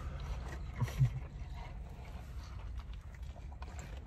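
Biting into and chewing a mouthful of cheeseburger, with soft wet mouth clicks. A short low vocal sound comes about a second in, over a steady low rumble.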